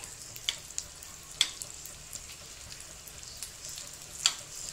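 Chapli kababs shallow-frying in oil in a nonstick pan, a steady sizzle. A few sharp clicks of a metal knife against the pan as the patties are turned over, the loudest about a second and a half in and just after four seconds in.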